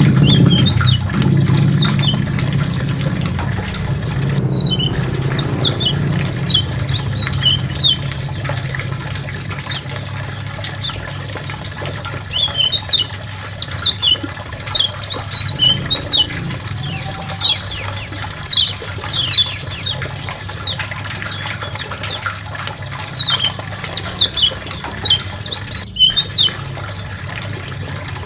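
Kecial white-eye singing a fast, chattering song of high, quick sweeping notes, most of them falling, in bursts throughout. A low engine hum fades away during the first several seconds.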